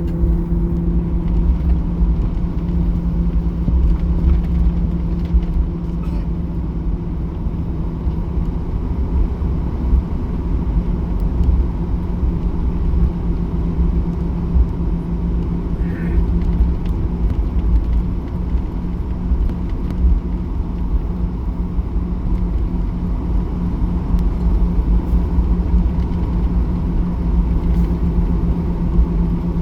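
Steady cabin noise of a Boeing 737-800 under way at takeoff: a loud, even low rumble with a steady hum from its CFM56-7B turbofan engines.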